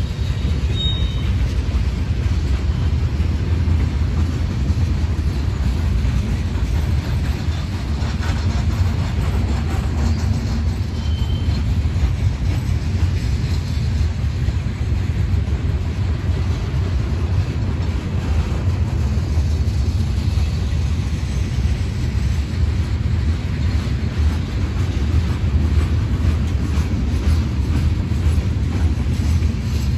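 A train's cars rolling past on the track, a steady low rumble that holds for the whole stretch.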